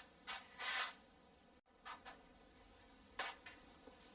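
A few brief, quiet scratching and rustling sounds of hand work, with near silence between them.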